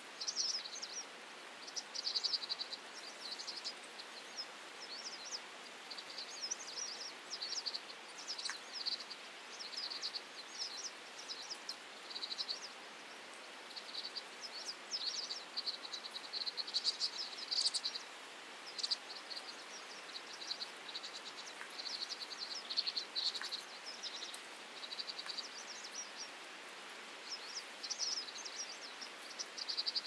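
Small birds chirping: many short, high-pitched calls in irregular bunches, over a faint steady background hiss.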